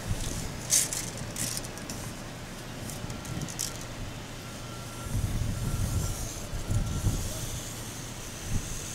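Metal tape measure rattling and clicking in a few sharp bursts as its blade is pulled out, then low wind rumble on the microphone from about halfway through.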